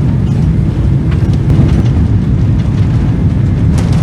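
Steady, loud low rumble of a Boeing 767 airliner heard from inside the passenger cabin in flight: engine and airflow noise, with a few faint clicks near the end.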